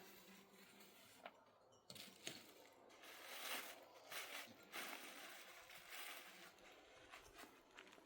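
Near silence: faint rustling with a few soft clicks.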